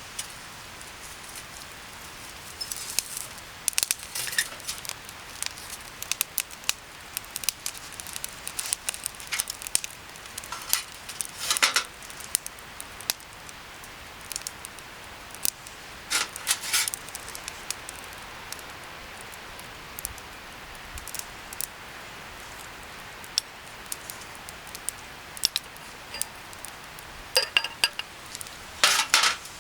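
Wood campfire crackling: irregular sharp pops and snaps over a steady hiss, with a few louder clusters of pops.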